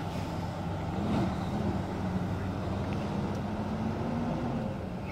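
A vehicle engine running steadily, its pitch rising a little about a second in, holding, then easing back near the end.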